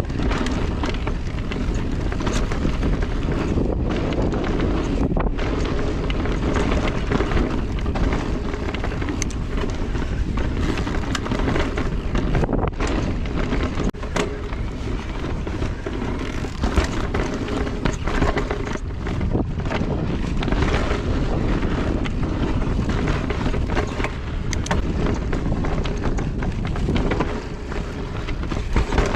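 Salsa Notch Carbon full-suspension e-mountain bike riding down a rough trail: steady tyre rumble on dirt mixed with wind on the microphone, and frequent sharp clicks and knocks as the bike rattles over rough ground.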